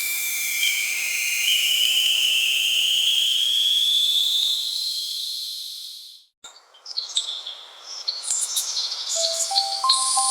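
Nature ambience: a high, steady insect- or bird-like call that slowly rises in pitch and fades out after about six seconds. After a brief gap come scattered chirps, and a simple electronic melody begins near the end.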